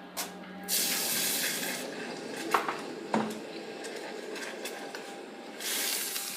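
Freshly welded hot metal dunked into water, hissing and sizzling as it quenches: a loud hiss about a second in that fades, a couple of sharp metal knocks, then a second hiss near the end.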